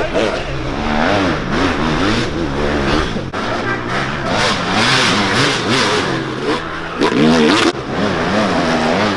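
Dirt bike engine revving hard and easing off again and again as it is ridden through the gears, its pitch rising and falling about once a second, with a louder burst about seven seconds in.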